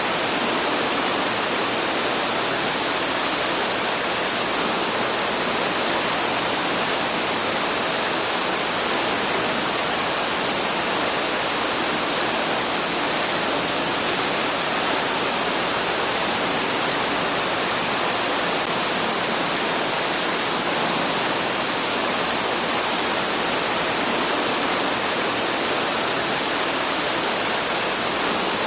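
Waterfall rushing in a steady, even hiss, with no change in level.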